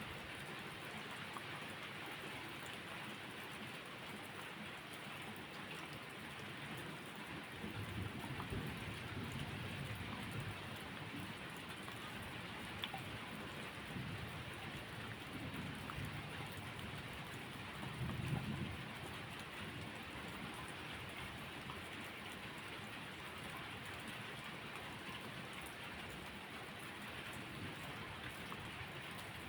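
Steady rain falling, with low rumbles of distant thunder: one about eight seconds in, a weaker one around 15 seconds, and another at about 18 seconds.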